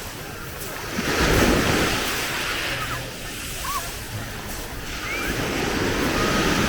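Sea waves washing onto the beach, surging twice: about a second in and again from about five seconds in.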